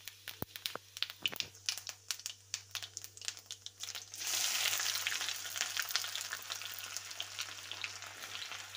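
Cumin seeds crackling and popping in hot oil in a kadhai. About four seconds in, chopped onion is dropped in and the oil sizzles loudly, settling into steady frying.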